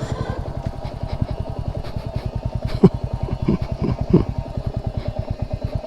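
Motorcycle engine idling with an even, rapid beat, with a few sharper knocks near the middle.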